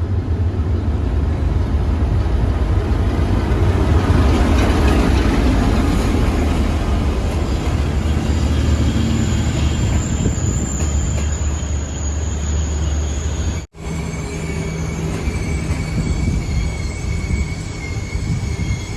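Standard Gauge Railway passenger train pulling into the station: a heavy, loud rumble of the diesel locomotive and carriages going by, loudest about four seconds in. A thin high wheel squeal joins it about ten seconds in, and the sound breaks off abruptly partway through before a quieter rumble resumes.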